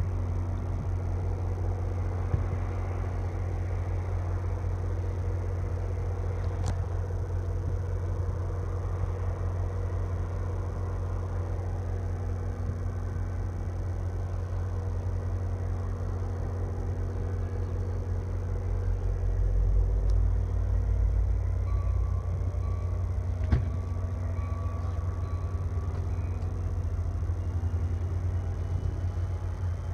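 Commuter train at the station running with a steady low hum and drone; in the last few seconds a whine rises steadily in pitch.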